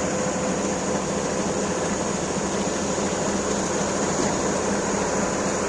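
Combine harvester running steadily: an even mechanical drone with a constant hum.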